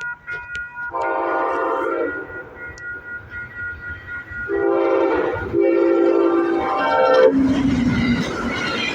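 Amtrak passenger locomotive's multi-note air horn sounding three blasts as the train speeds toward a crossing; on the last blast the horn's pitch drops as the locomotive passes, followed by the rushing noise of the train going by at speed.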